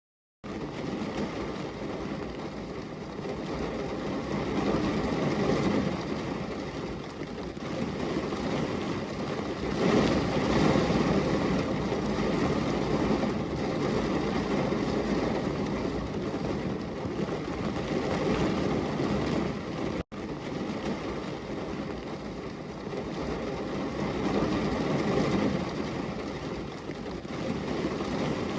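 Thunderstorm ambience: a steady wash of rain noise with slow, low rolling swells of thunder. It starts abruptly out of silence and cuts out for an instant about two-thirds of the way through.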